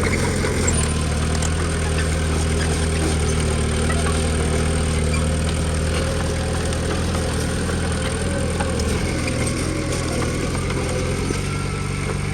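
Komatsu D20P bulldozer's diesel engine running steadily, its note dropping slightly about a second in and shifting again near the end.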